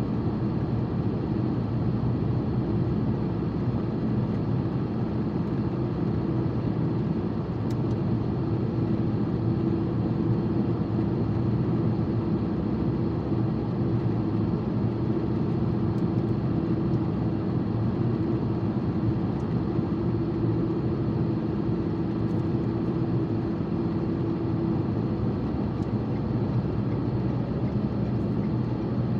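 Steady road and engine noise inside a car cabin while driving at an even speed, a constant low drone with a faint steady hum.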